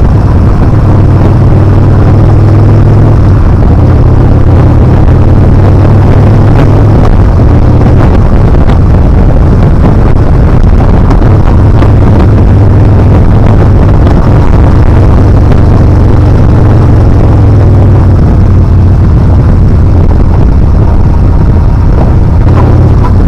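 Yamaha Bolt R-Spec's air-cooled V-twin running under way, heard through heavy wind noise on the microphone. The engine note eases off twice and comes back.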